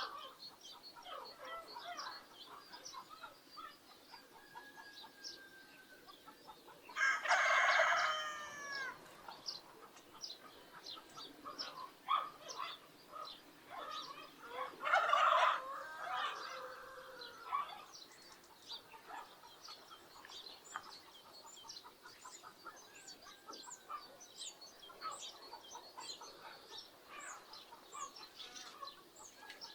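Two loud calls from domestic poultry, one about a quarter of the way in and one near the middle, each lasting one to three seconds, over the continual chirping of small birds.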